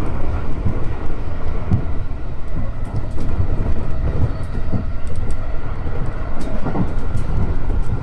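Electric commuter train running along the track, heard from inside the front car: a steady rumble of wheels and running gear with scattered clicks and knocks from the rails.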